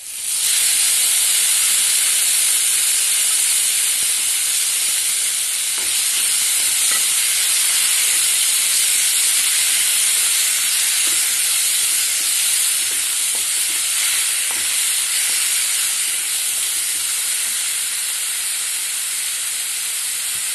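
Crushed spices, curry leaves and dried red chillies frying in hot oil in a nonstick pan, sizzling loudly and steadily while a wooden spatula stirs them, with a few faint scrapes. The sizzle starts suddenly and eases a little later on.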